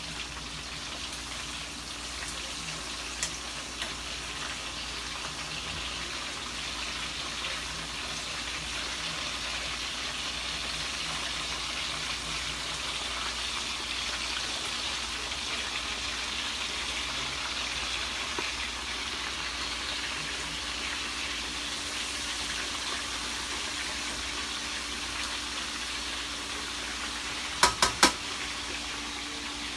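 Food frying in a pan with a steady sizzle, with three quick sharp clinks close together near the end.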